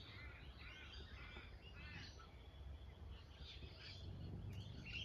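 Faint birdsong: series of quick, arching chirps from songbirds, busiest in the first two seconds and again near the end, over a steady low hum.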